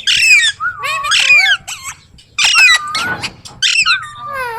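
Ringneck parrot calling: about five short, loud, high-pitched calls about a second apart, each bending up and down in pitch, the last one sliding downward near the end.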